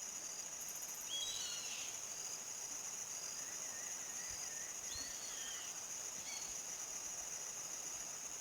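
A steady, high-pitched chorus of crickets chirping, with a few short bird calls and trills over it, the clearest about a second in and again around five seconds.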